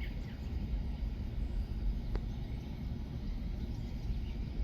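Outdoor ambience: a steady low rumble with a few faint bird chirps, at the very start and again near the end, and a single faint click about two seconds in.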